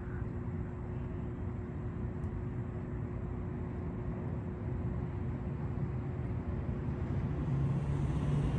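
Steady low rumble of an outdoor urban background, with a constant mechanical hum; a lower hum joins near the end.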